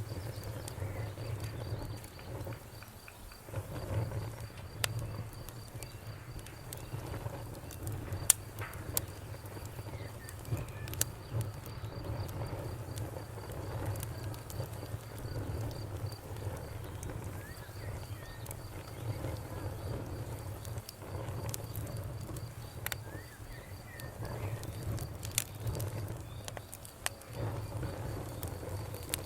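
Campfire crackling, with scattered sharp pops over a low steady rumble. A high, rapidly pulsing insect trill runs through the first half.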